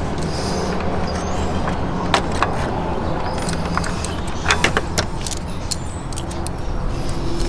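Light metallic clicks and clinks of hand tools being handled around the engine belt tensioner, several in a quick cluster about halfway through, over a steady low hum.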